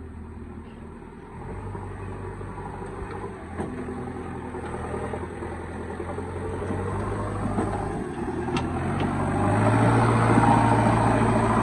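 Heavy diesel engine running steadily, getting louder about a second and a half in and again near the end as it takes on more throttle or load.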